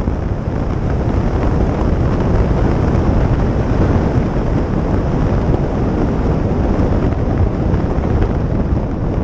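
Motorcycle riding at speed: steady wind rush on the microphone over the running engine.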